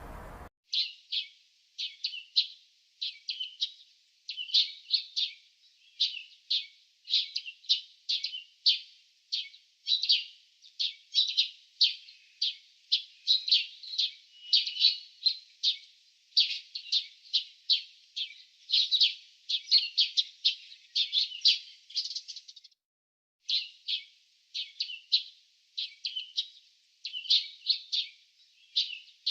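Small birds chirping in a rapid, continuous run of short chirps, with a brief pause about 23 seconds in.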